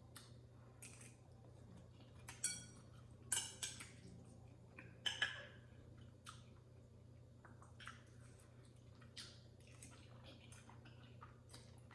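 Quiet eating sounds: scattered wet clicks of chewing noodles and meat, with a few sharper clinks of a utensil against the bowl, the loudest about two and a half, three and a half and five seconds in.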